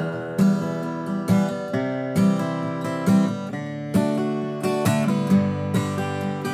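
Acoustic guitar playing a strummed accompaniment in a steady rhythm, with bass notes played apart from accented strums on the higher strings.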